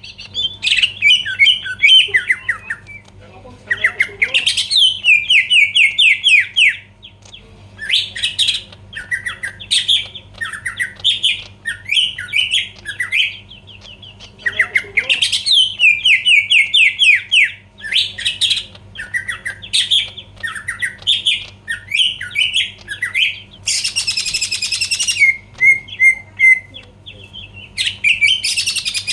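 Green leafbird (cucak ijo) singing vigorously: fast chattering, warbling phrases separated by short pauses, with a harsh rasping note about 24 s in. A faint low hum runs underneath.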